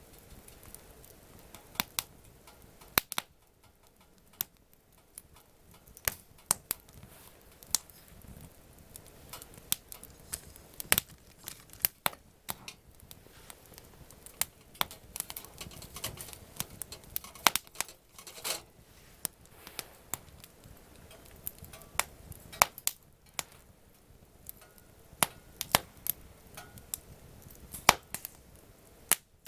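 Wood campfire crackling: irregular sharp pops and snaps from the burning wood.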